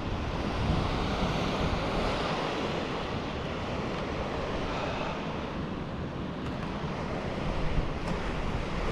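Waterfall rushing steadily over rocks, running full after recent rain.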